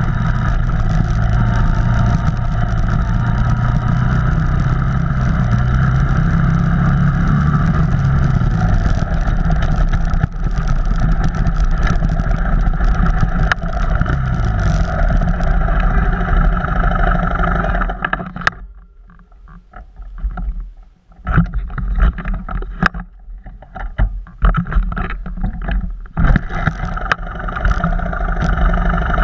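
An off-road vehicle's engine running steadily, its low pitch wavering up and down. About two thirds of the way through the sound drops away sharply and comes back in choppy, uneven bursts for several seconds before the steady running returns.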